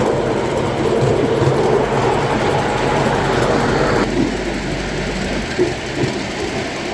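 Miniature ride-on railway train running along its track, a steady rumble of wheels and carriages. The higher part of the noise drops away about four seconds in.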